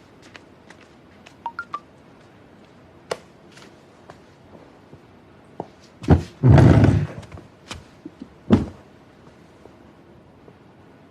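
Scattered light knocks and handling noises, then a heavy thump about six seconds in that runs into a brief loud crash, and another sharp knock about two seconds later.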